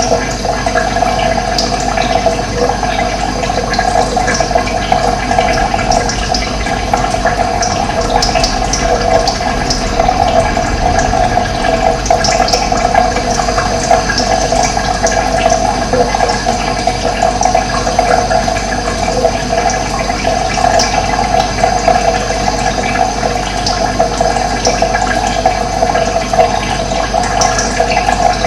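Running water, a steady rush with no let-up.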